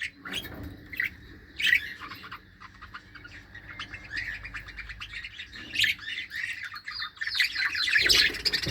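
A flock of aviary birds chirping and squawking, many short overlapping calls at once, growing busier near the end.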